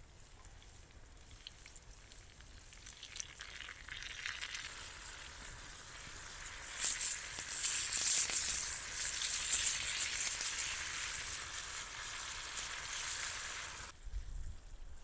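Food sizzling as it fries, a crackly hiss that grows steadily louder over several seconds and then cuts off suddenly near the end.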